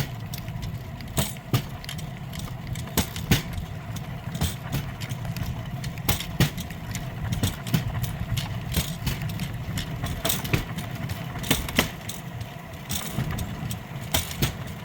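Pedal-powered rail bike rolling along old railway track. Its steel wheels give a steady low rumble under frequent, irregular clicks and clacks, and the cart's frame rattles.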